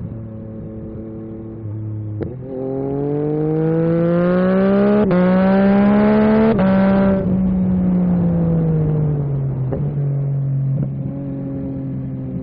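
Yamaha MT-09 SP's three-cylinder engine through an Akrapovic carbon racing exhaust, accelerating hard with the engine note climbing and two quick gear changes a second and a half apart. It then rolls off the throttle, the note falling away and settling into a steady cruise.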